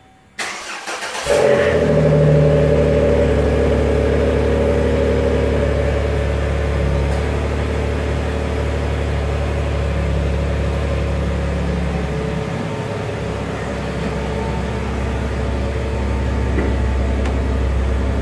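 2009 Chevrolet Impala LTZ's V6 cranked by the starter for about a second, then catching, flaring briefly and settling into a steady fast idle at the exhaust tailpipe. It is a cold start after the car has sat unstarted for a while.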